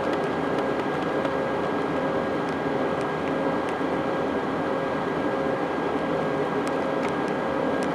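Steady in-flight cabin noise of an Airbus A320-232: an even rush of engine and airflow noise, with a steady hum running through it and a few faint ticks.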